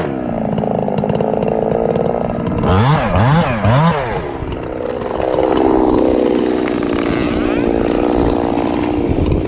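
Chainsaw engine running, revved in three quick throttle blips about three seconds in, then held at a steady speed for the rest.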